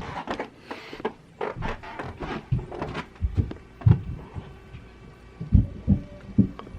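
Bangs and thuds from the upstairs apartment, kids running and stomping overhead, heard through the ceiling. Sharp knocks and clatter come first, then a run of heavy, dull thumps in the second half.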